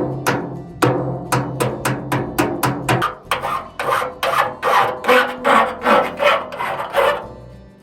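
Hand saw cutting through wood in quick, even back-and-forth strokes, about three a second, stopping near the end. A low steady hum sits beneath the first three seconds.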